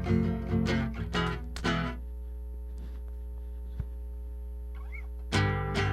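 Guitar plucked and strummed in a short run of notes, then stopping about two seconds in, leaving only a steady low hum for about three seconds before the guitar comes back in near the end.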